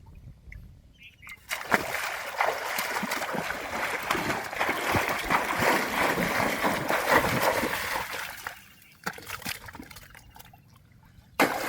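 Water splashing and sloshing hard for about seven seconds, then a few short splashes near the end.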